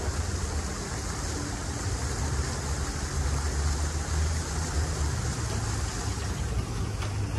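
Steady low rumble with hiss from a passenger train moving away from a grade crossing, mixed with cars starting to drive over the crossing.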